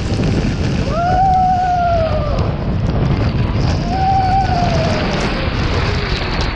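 Rushing water and wind buffeting the microphone during a ride down a waterslide, with three long, drawn-out "whooo" cries that rise and then slowly fall.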